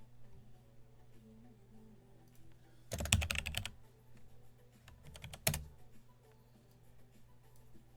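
Typing on a computer keyboard: a quick run of keystrokes about three seconds in, then a few more keystrokes a couple of seconds later.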